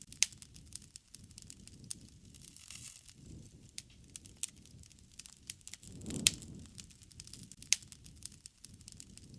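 Wood fire crackling, with sharp pops and snaps scattered throughout over a low rush of flame that swells now and then. The loudest pop comes about six seconds in.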